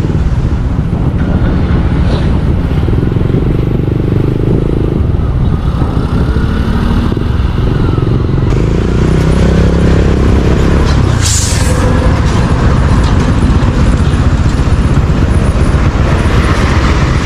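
Motorcycle engine running on the move, its pitch shifting a few times as the speed changes, with a brief hiss about eleven seconds in.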